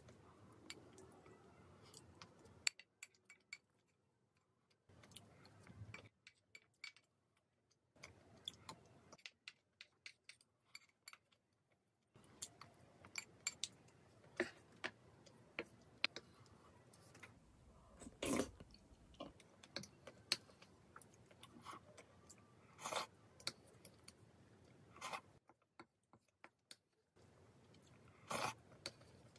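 Close-up eating sounds: chewing and smacking on soft rice in ramen broth, with scattered small clicks of a wooden spoon against a ceramic bowl and one louder knock about two-thirds through. The sound drops out to dead silence several times.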